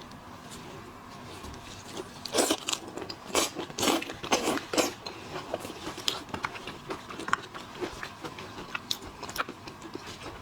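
Crunching and cracking of shrimp shells while they are bitten and eaten, with a run of loud cracks a couple of seconds in, then lighter clicks.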